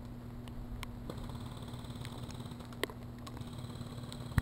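Rain pattering, with scattered sharp ticks of drops striking, the sharpest near the end, over a steady low hum.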